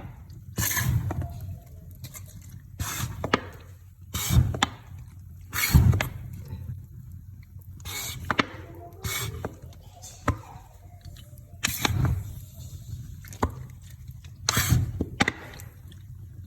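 Cologne being sprayed onto fireplace wood in a series of short hisses, about one every second or two, with scattered clicks and crackles between them.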